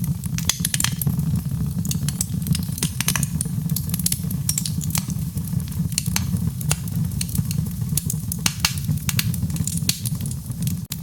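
Wood fire crackling: many irregular sharp snaps and pops over a steady low rumble of the burning fire.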